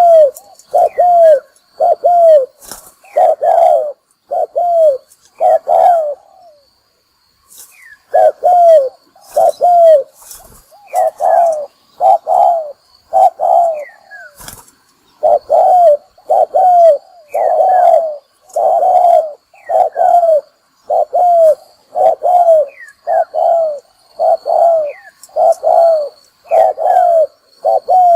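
Spotted dove cooing: a long run of short, low coo notes, one to two a second, with a pause of about two seconds near the first quarter. A decoy call of the kind used to provoke other doves and lure them into a trap.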